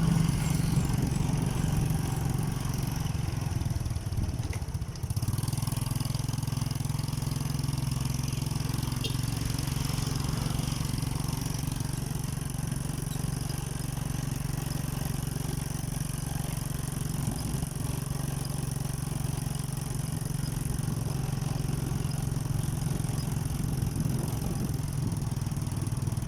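Motorcycle engine running steadily, with a brief drop in level about five seconds in.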